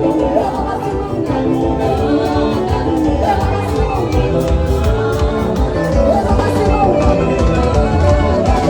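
Live band music with drums and singing.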